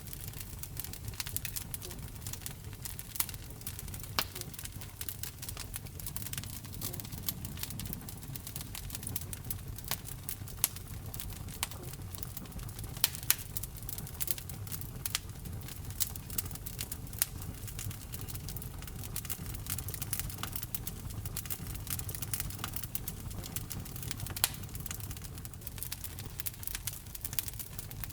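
Wood fire burning in a fireplace, crackling steadily with frequent sharp pops, a few of them louder, over a low rumble of the flames.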